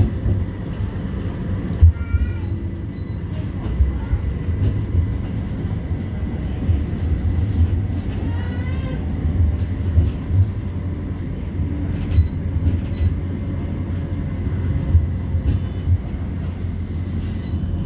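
Interior running noise of a CAF Urbos 3 light-rail tram in motion: a steady low rumble from wheels on rail, with frequent small knocks from the track.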